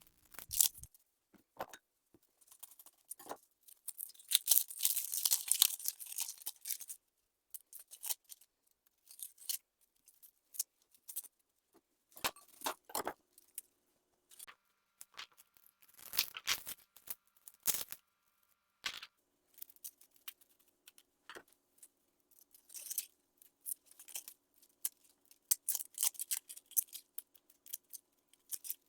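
A bread knife sawing and chopping through onions on a chopping board: irregular crisp cuts and taps of the blade on the board, with a longer stretch of sawing about four seconds in.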